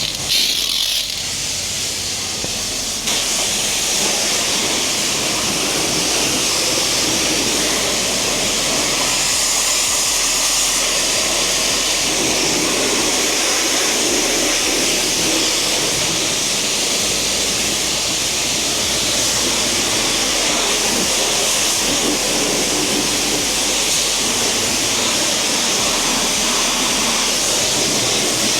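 Steady hiss of water spraying, as in rinsing a car with a hose or pressure washer, growing louder about three seconds in and then holding steady.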